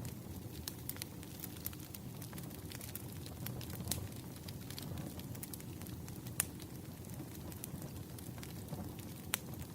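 Campfire burning: a steady low rumble of flames with frequent small crackles and a few louder pops of wood.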